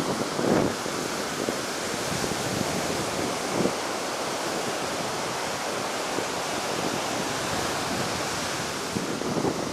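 Heavy ocean surf rushing steadily onto the beach, its waves running high after a typhoon, with wind buffeting the microphone.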